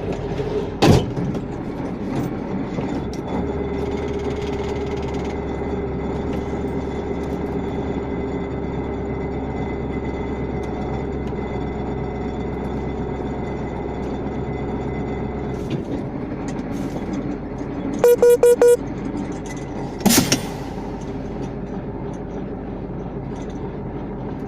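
A vehicle running steadily, with a horn sounding a quick series of short blasts about 18 seconds in. Sharp knocks come about a second in and again at about 20 seconds.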